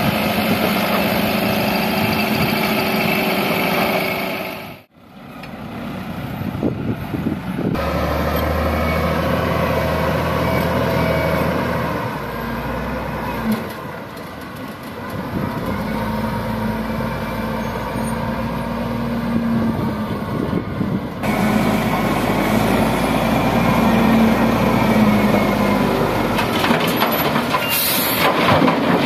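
Heavy diesel engines of wheel loaders and a dump truck running while soil is loaded. The sound drops out briefly about five seconds in and changes abruptly several more times.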